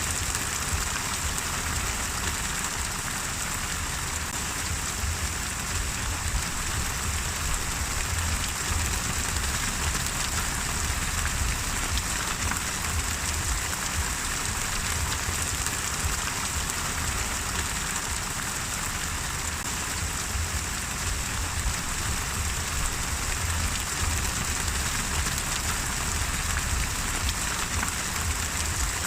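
Steady rain falling on a surface, an even hiss of many drops with a low rumble underneath.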